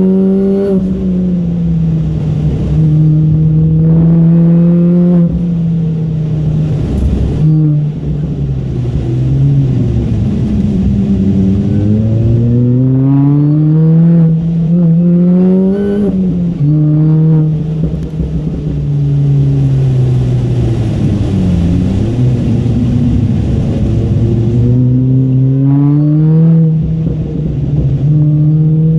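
MINI Cooper S four-cylinder engine heard from inside the cabin at full throttle on track, rising in pitch through the revs, then dropping sharply on lifts, braking and downshifts before climbing again, several times over.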